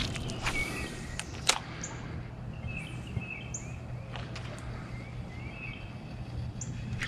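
Songbirds chirping, with short chirps and a few brief high rising calls, over a steady low hum. A few sharp clicks come in the first second and a half.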